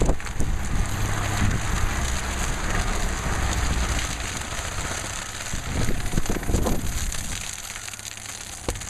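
Machine engine running with crunching and crackling of debris, with a few knocks; the low engine hum is strongest in the first half and fades later.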